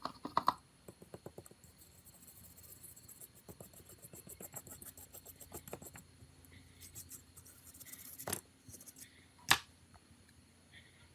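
Small hand tools working on a mobile phone's hard plastic and metal parts: a run of light rapid clicks and ticks, with a few sharper clicks near the start and twice near the end.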